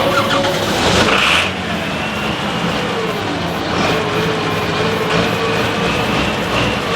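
Engine of a pulling vehicle running hard, with a steady high whine over its note and a louder surge about a second in.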